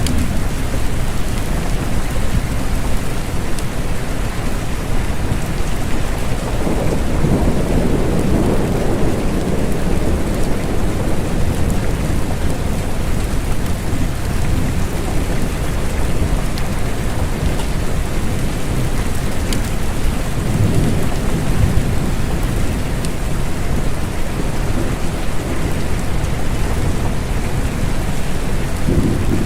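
Steady rain with low rolls of thunder swelling up several times, around a quarter of the way in, about two-thirds through and near the end.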